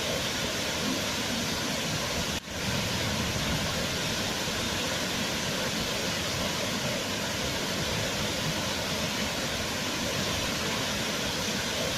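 Waterfall rushing, a steady even roar of falling water, with a momentary dip in level about two seconds in.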